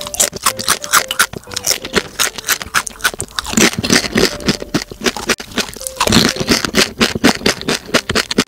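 Close-miked chewing of crunchy food: a dense run of crisp crunches and mouth clicks, growing louder about three and a half seconds in and again about six seconds in.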